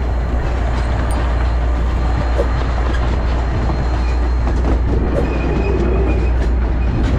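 Open-air passenger cars of a small train ride rolling along the track, a steady rumble heard from a seat aboard.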